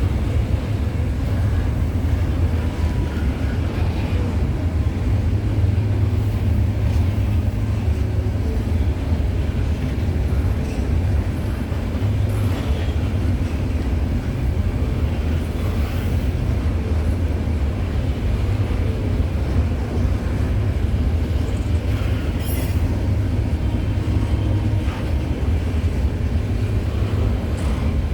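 Freight train cars rolling past at trackside: a steady low rumble of steel wheels on rail, with a few faint clicks.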